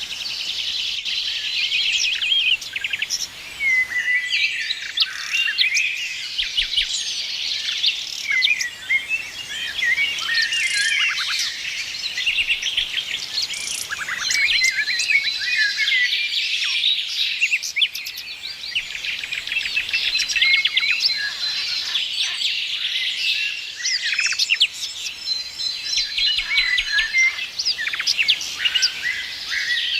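A chorus of many small birds chirping, trilling and whistling at once, densely overlapping, with a few longer high whistled notes held steady.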